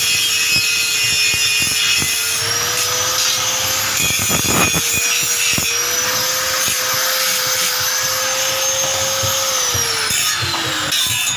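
Small electric motor running with a steady whine over a rasping hiss; near the end the whine drops in pitch as the motor slows.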